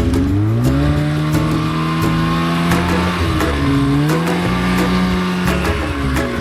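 Polaris RMK two-stroke snowmobile engine revving while riding through deep powder. Its pitch climbs about half a second in, sags twice (a little past the middle and near the end) as the throttle eases, and climbs again each time.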